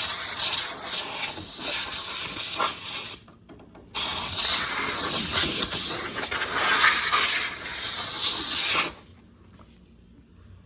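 Air blown in two long hissing blasts through a refrigerator's lint-clogged condenser to clear it. The first blast cuts off about three seconds in; the second starts a second later and runs about five seconds.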